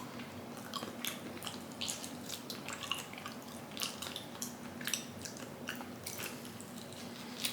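Wet, clicking chewing of raw chicken, many small smacks and squishes in an uneven run, over a faint steady hum.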